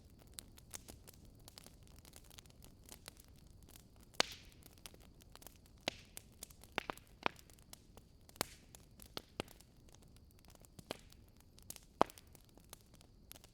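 Wood fire crackling, with irregular sharp pops and snaps over a low steady hiss; the loudest pops come about four seconds in and near the end.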